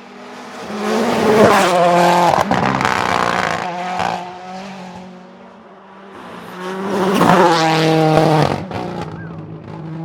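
Rally car engine revving hard through a stage, rising to a loud peak twice with pitch sweeps up and down, with some tire squeal.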